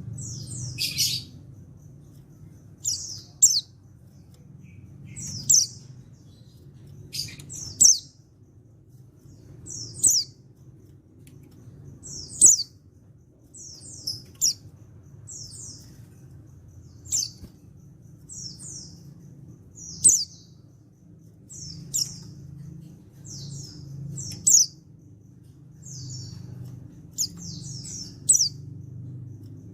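Male white-eye (pleci) calling: short, high, sharp chirps about every two seconds, some in quick runs of two or three, over a faint steady low hum.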